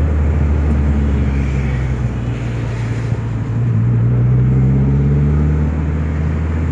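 Dodge SRT-4's turbocharged four-cylinder engine heard from inside the cabin while driving, a steady low drone. About three and a half seconds in it grows louder and climbs in pitch as the car accelerates, then eases off about two seconds later.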